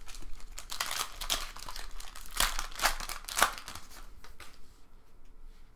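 Trading-card pack wrapper crinkling and tearing as it is opened and the cards are handled, in a run of crackles that is loudest in the middle and thins out near the end.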